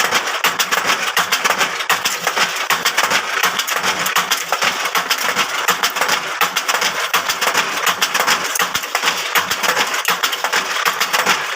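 Bamboo skewer-making machine running, with a dense, continuous clatter of rapid clicks and rattling.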